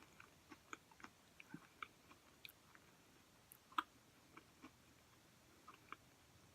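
Quiet chewing of a peanut butter chocolate granola cup: soft, irregular mouth clicks and small crunches, with one slightly louder click nearly four seconds in.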